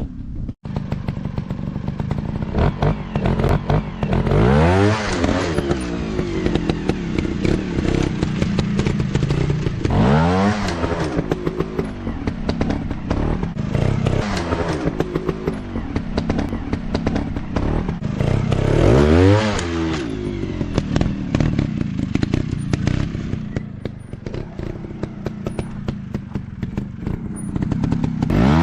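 Dirt bike engine running hard, its pitch sweeping up in several sharp revs, with clattering and crackling between the revs.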